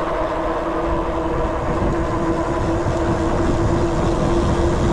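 A vehicle's steady drone: a constant hum over a low rumble, unchanging throughout.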